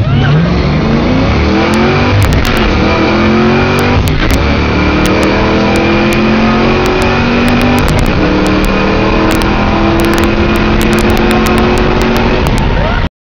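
Fox-body Ford Mustang 5.0 V8 with Flowmaster Super 44 mufflers at full throttle on a quarter-mile pass. Its pitch climbs as it pulls through the gears and drops back at each shift, and the sound cuts off abruptly near the end.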